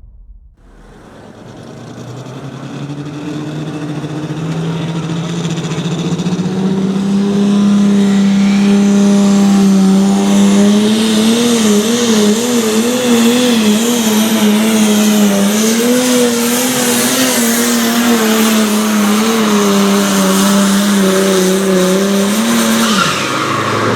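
Super stock pulling tractor's turbocharged diesel engine at full power during a pull, growing louder over about ten seconds as it comes down the track, its pitch wavering in the middle, then dropping off near the end as the throttle comes off.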